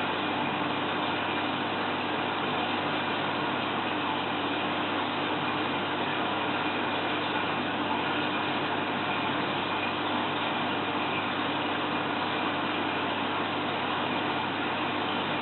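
Steady, even hum and hiss of a small motor running, with no change throughout.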